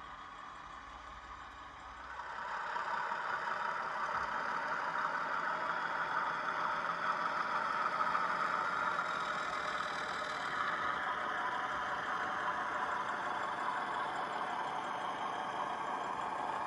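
The DCC sound decoder of a Hornby 00 gauge Class 31 model diesel locomotive, playing its diesel engine sound through the model's small speaker. The sound is steady and gets louder about two seconds in.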